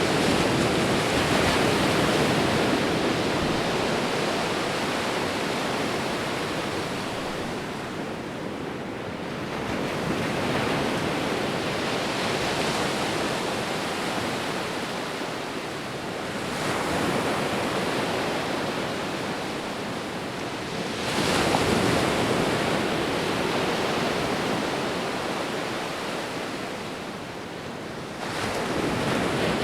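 Sea waves breaking and washing on a shore, a steady roar of surf that swells with each new breaker, about every five seconds.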